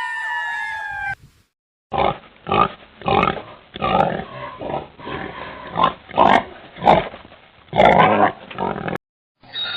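Pig grunting in a run of short rough grunts, about one or two a second, from about two seconds in until near the end. In the first second, a falling pitched call ends abruptly.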